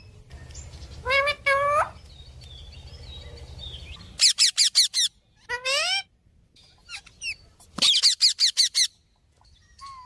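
Parrots calling: two short harsh calls about a second in, then quick runs of high, rapid chirps around four and eight seconds in, with a sliding call between them.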